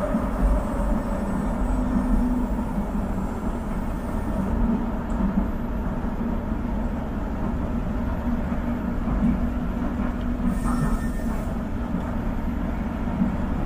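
LRT Line 1 light-rail train running along the track, a continuous noise with a steady low hum.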